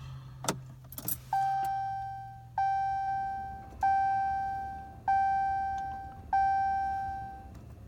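Keys jingle with a couple of sharp clicks, then the pickup's dashboard warning chime dings five times at an even pace, about one and a quarter seconds apart, each ding fading away, over a low steady hum.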